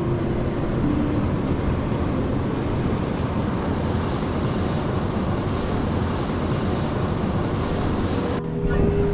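Steam venting from a volcanic fumarole, a loud steady rushing hiss. It cuts off suddenly about eight seconds in, and music takes over.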